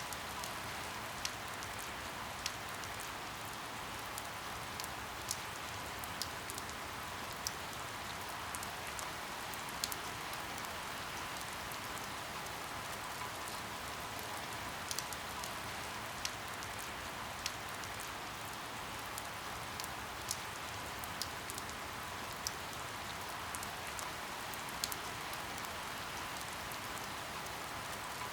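Steady rain falling, with single drops ticking sharply at irregular moments, roughly once a second.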